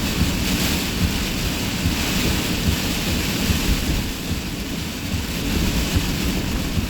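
Heavy rain and strong gusting wind: a steady hiss of rain over a constant, uneven low rumbling of wind buffeting.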